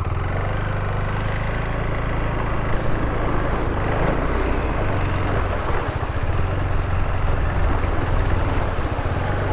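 Motorcycle engine running steadily at low revs, with a steady rushing noise over it.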